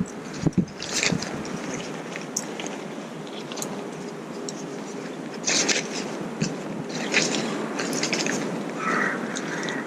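Rustling, scraping and crunching from someone moving about and handling gear on the woodland floor, with louder crunches about halfway through and again near the end.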